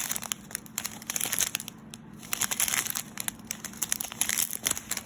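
Small plastic bags of round resin diamond-painting drills crinkling as they are handled, with irregular crackles and clicks.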